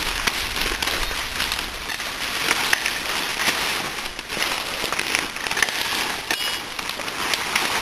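Continuous rustling and crackling of forest undergrowth and leaf litter, thick with small snaps and clicks, as people move and work through it.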